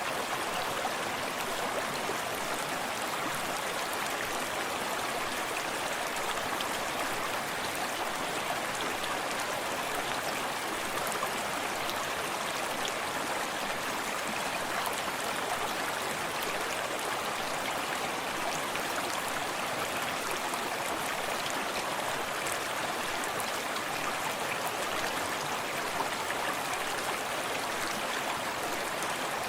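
Small forest stream flowing steadily, a continuous rushing of water with faint splashing and lapping.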